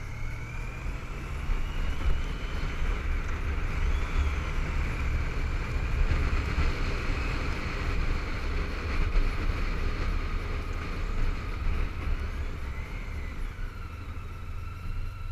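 Honda ST1300 motorcycle riding at road speed, heard through a helmet-mounted camera: heavy low wind rush over the bike's running engine, with a thin whine that slowly rises and falls in pitch. The noise swells in the middle and eases a little near the end.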